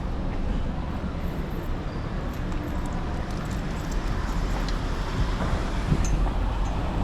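Steady rumble of a mountain bike in motion: wind on the microphone and tyre noise, with a few light clicks and rattles in the second half.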